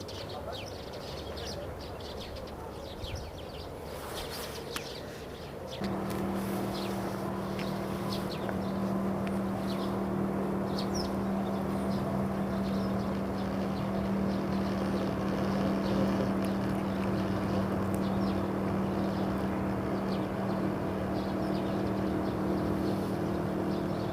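Small birds chirping over outdoor ambience. About six seconds in, a steady engine drone with a low, even hum comes in suddenly and runs on under the chirps.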